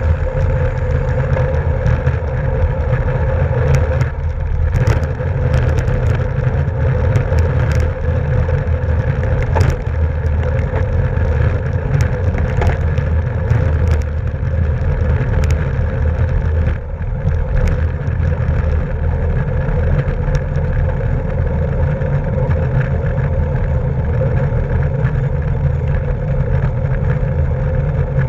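Steady wind rush and road rumble from a racing bicycle at speed, with scattered sharp clicks and knocks in the first half.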